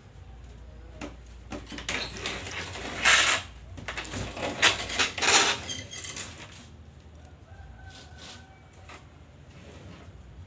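Loud, harsh bird calls, bunched about two to six seconds in, then a few faint short notes.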